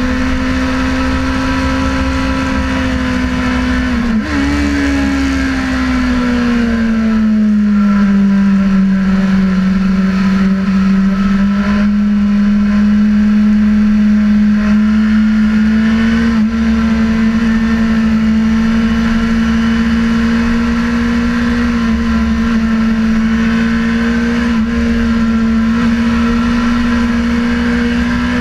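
Sportbike engine at high revs under way, one steady note. About four seconds in it blips up with a quick downshift, then the revs sink for several seconds and slowly climb back as the bike accelerates again.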